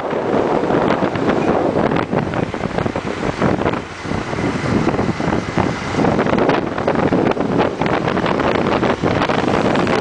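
Heavy wind buffeting the microphone on a moving motorcycle, over the bike's running and road noise: a loud, gusting rush that dips briefly about four seconds in.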